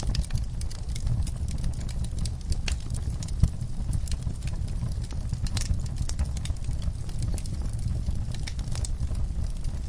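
Wood fire crackling, with irregular sharp snaps and pops over a steady low rumble and one louder pop about three and a half seconds in.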